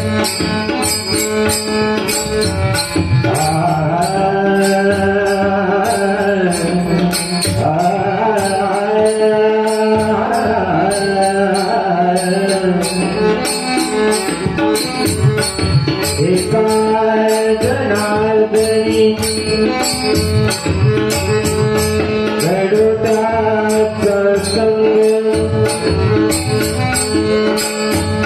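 Marathi devotional bhajan singing: a man's voice singing a melodic line over a steady held drone, with small hand cymbals struck in a fast even rhythm and a drum.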